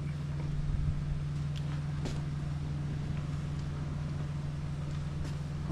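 A steady low mechanical hum, with a couple of faint clicks about two seconds in.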